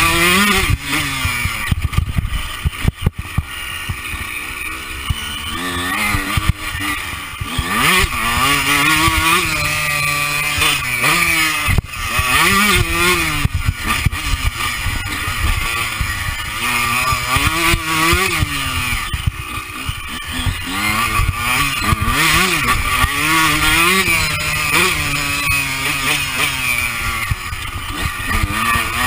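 Honda CR125's single-cylinder two-stroke engine revving up and dropping back again and again, as a motocross bike is ridden hard through a lap. Heard up close from a chest-mounted camera, with rushing wind noise and a few sharp knocks.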